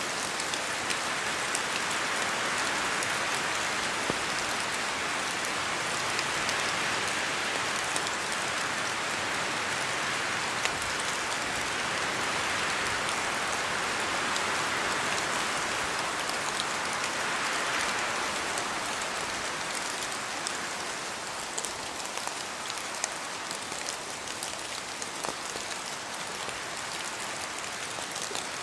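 Rain falling on forest trees: a steady hiss with many separate drops ticking through it. It swells and eases a few times and is a little softer over the last several seconds.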